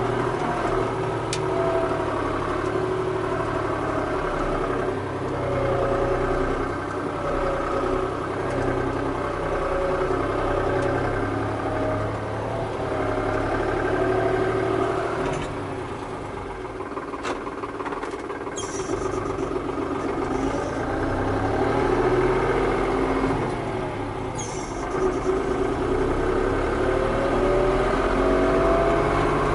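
Tractor engine running under varying throttle, its pitch shifting and rising near the end.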